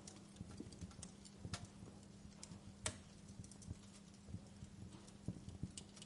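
Wood fire crackling in a fireplace: irregular pops and snaps, the sharpest about three seconds in, over a faint steady hiss and a low hum.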